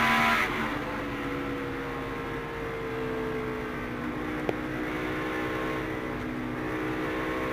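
NASCAR stock car's V8 engine heard from inside the cockpit, running steadily with its pitch drifting slowly down and then holding level. There is a single sharp click about four and a half seconds in.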